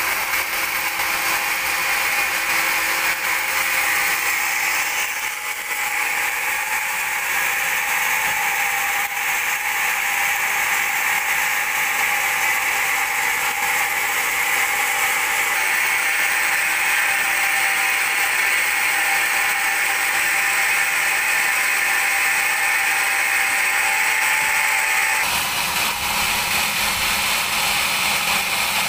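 Sawmill band saw running steadily while it cuts through a teak log, a loud even whine and hiss. About 25 seconds in the sound changes, with a lower hum coming in.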